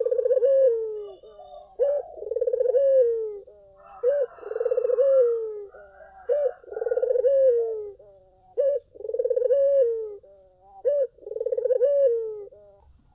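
Puter (Barbary or ringneck dove) cooing, about six phrases in a row. Each phrase is a short note followed by a longer rolling coo. The calls stop just before the end.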